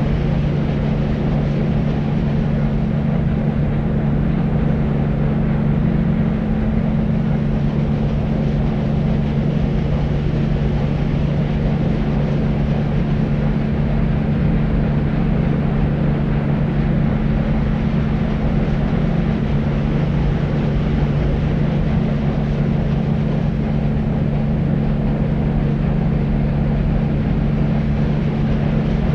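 Deep white noise for sleep: an even, rumbling hiss weighted toward the bass, with a steady low hum inside it and no change in level.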